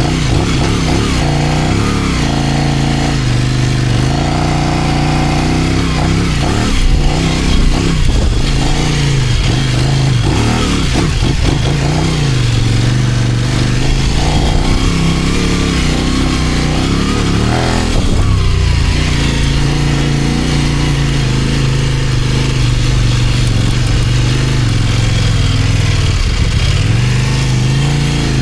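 Kove 800X Pro motorcycle's parallel-twin engine running on a gentle break-in ride, held at light load and modest revs. Its pitch rises and falls repeatedly with the throttle and gear changes, dipping briefly about two-thirds of the way through and again near the end, over a steady rush of wind.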